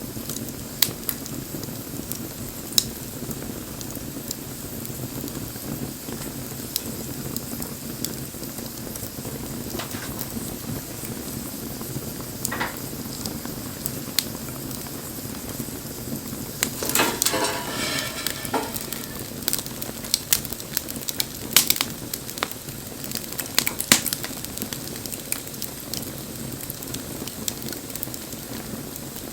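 Wood fire burning, a steady hiss with scattered sharp crackles and pops, and a denser burst of popping and hissing about seventeen seconds in.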